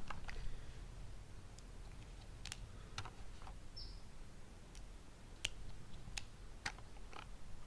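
Scattered light clicks and ticks at irregular intervals, with one short falling bird chirp about four seconds in.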